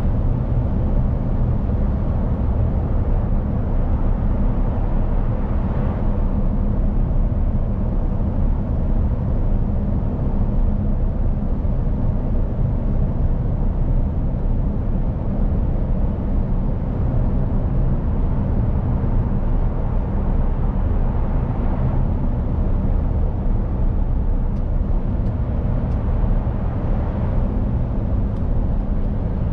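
Mercedes-Benz Actros truck driving at a steady pace: an even, low engine drone under constant road and tyre noise.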